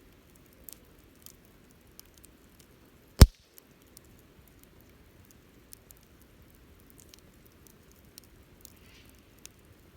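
Wood fire crackling with scattered small snaps, and one sharp loud pop about three seconds in.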